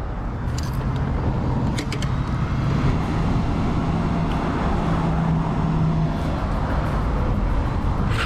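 Steady road-traffic and engine noise with a low, even engine hum, and a couple of short clicks about two seconds in.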